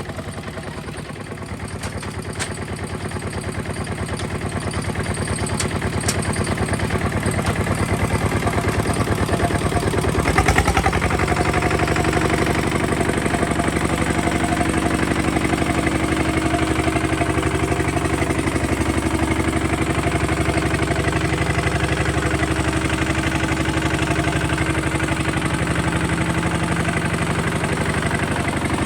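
Kubota RT 140 DI single-cylinder diesel walking-tractor engine running with a steady knocking beat, growing louder over the first ten seconds, a brief louder burst about ten seconds in, then running steadily.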